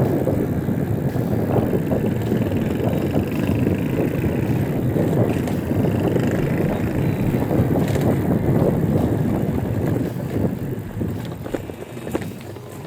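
Wind buffeting the microphone and road noise from a moving e-bike. It is a steady low rumble that fades noticeably near the end.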